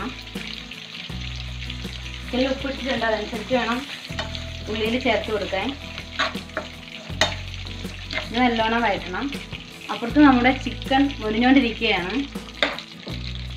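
Chopped onions, green chillies and garlic frying in oil in a non-stick pan, stirred with a steel spoon that scrapes and knocks against the pan again and again.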